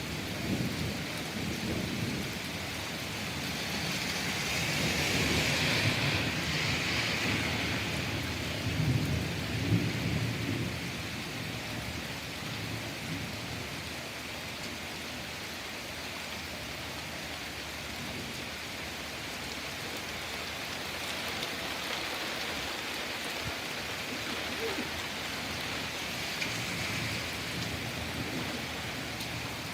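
Steady rain falling, with thunder rumbling: a long rolling peal swells about four seconds in and fades by about eleven seconds, and a fainter rumble comes near the end.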